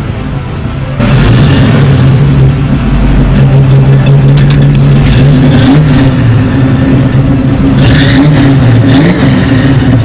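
Chevrolet small-block 350 V8 crate engine in a 1981 Camaro revving hard. It comes in abruptly about a second in and holds a high, steady pitch with small rises and dips.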